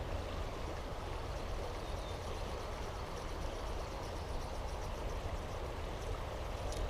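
River water rushing steadily, with a heavy low rumble underneath.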